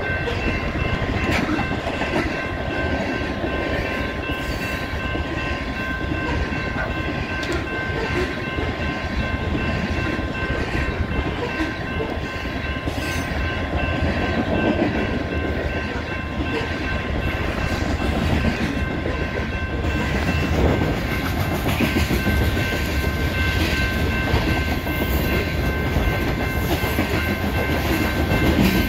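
Coal hopper cars rolling past at a steady speed: a continuous rumble of wheels on rail with clickety-clack over the joints. Through it, a grade-crossing bell keeps ringing steadily.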